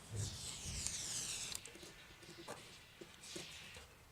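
Construction-foam gun faintly hissing as expanding foam is squeezed into a gap, followed by a few light clicks.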